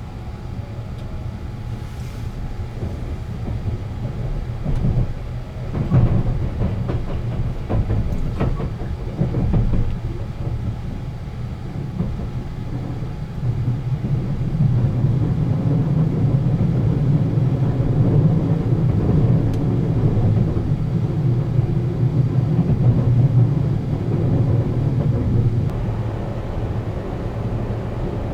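Sunrise Seto sleeper train, a 285 series electric multiple unit, running along the line: a steady low rumble with a run of sharp rail clacks between about five and ten seconds in. The rumble grows louder about halfway through, then eases near the end.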